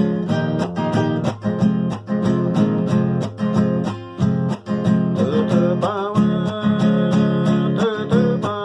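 Acoustic guitar strummed in a steady rhythm as music. A gliding melodic line joins about halfway through.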